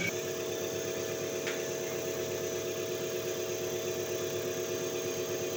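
Diesel common-rail injector test bench running during a calibration test: a steady hum with a few constant tones from its drive motor and high-pressure pump.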